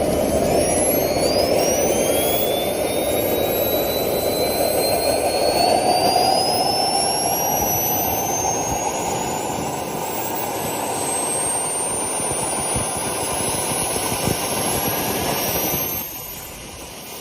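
Turbine helicopter engine spooling up during its start: a whine climbing steadily in pitch over a loud rushing hiss. The sound drops suddenly in level near the end.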